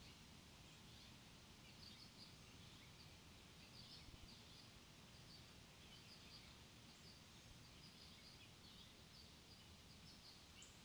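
Faint, high chirps from small birds, many short calls scattered throughout over a steady low background hiss.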